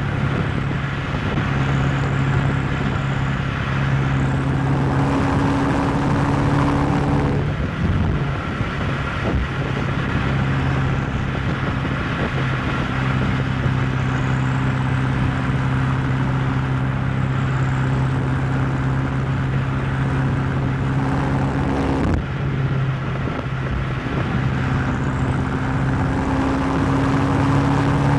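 BMW M8 Competition's twin-turbo V8 running steadily at cruising speed over road noise, with brief breaks in the engine note about seven and twenty-two seconds in and a slight rise in pitch near the end.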